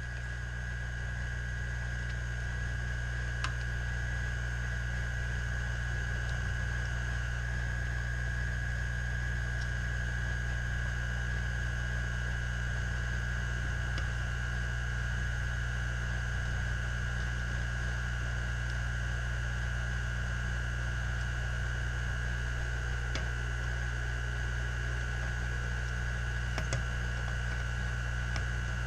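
Steady electrical mains hum with a thin constant high whine over it, and a few faint ticks now and then.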